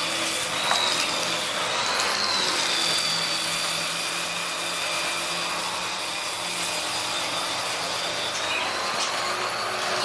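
Dyson DC15 All Floors upright vacuum cleaner running on carpet: a steady motor whine with a thin high-pitched tone on top. Its pitch wavers slightly about two seconds in and again near the end.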